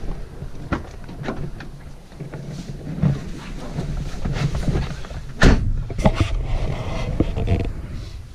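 Clicks and knocks of someone climbing into the driver's seat of a Peugeot Partner, with one loud thump about five and a half seconds in and a few more knocks just after.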